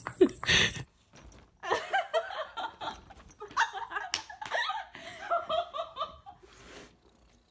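People laughing in short choppy bursts, after a sharp slap-like hit near the start.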